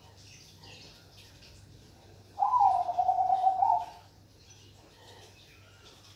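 Zebra dove (perkutut) giving one rolling coo, about a second and a half long, starting about two and a half seconds in. It opens on a slightly higher note and then holds a lower, fluttering tone.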